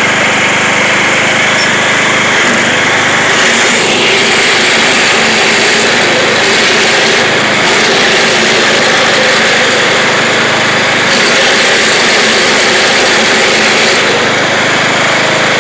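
Craftsman YT3000 lawn tractor engine running loud and steady at high throttle while the tractor is driven.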